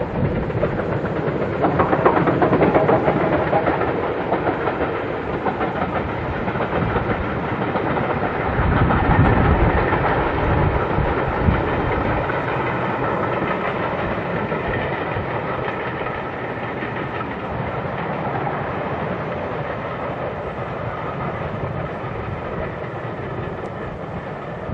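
A steam-hauled train running along the line, its wheels clattering over the rail joints. It swells louder twice, then settles to a steadier run.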